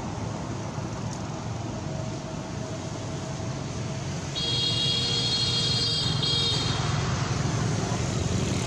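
Steady background rumble of the kind made by road traffic. About halfway through, a high-pitched buzzing tone sounds for about two seconds.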